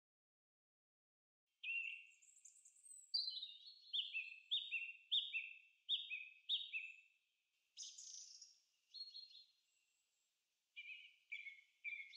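Birdsong: a small bird's quick, high chirps repeated about twice a second, starting about a second and a half in. A few scattered calls follow, then three short chirps near the end.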